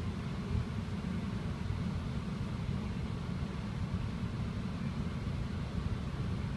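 Steady low rumble of a Queensland Rail SMU electric suburban train running at speed, heard from inside the carriage.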